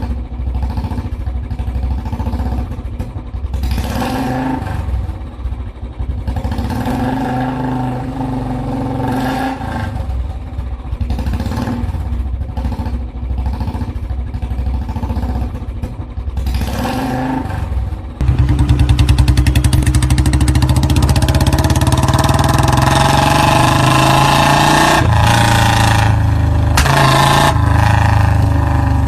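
Motor vehicle engine running and revving up and down, turning suddenly louder and steadier about eighteen seconds in.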